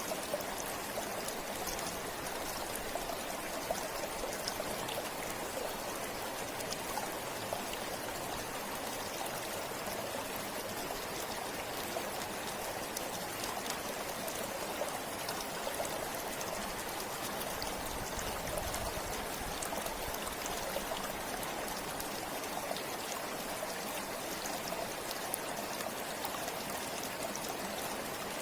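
River water flowing steadily over rocks, a constant rushing with fine splashing and trickling.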